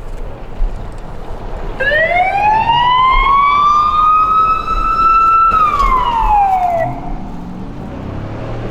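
A rally vehicle accelerating past on the stage: a loud high-pitched whine that rises in pitch as it picks up speed, then drops sharply as it goes by and fades out.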